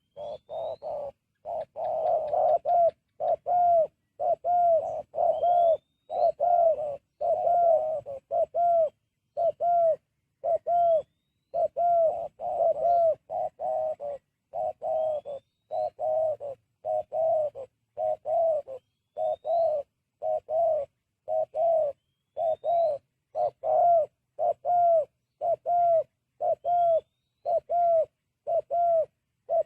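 Spotted dove (terkukur) cooing over and over, a steady run of short coos about one a second. A faint, brief rising high note from another bird comes every few seconds.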